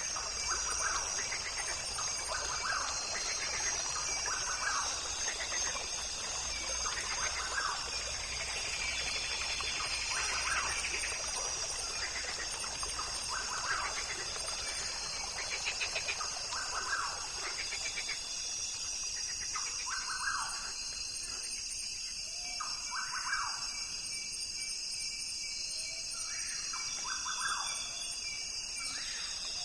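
Barbet calling over and over, a series of short pulsed notes repeated every second or two, over a steady high-pitched drone.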